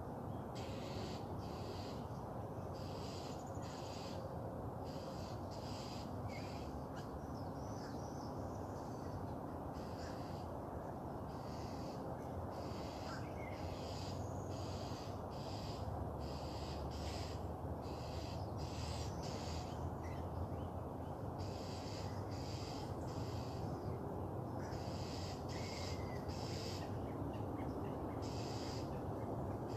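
Outdoor dawn ambience: a bird calling over and over in short, evenly spaced high notes, over a steady low rumble.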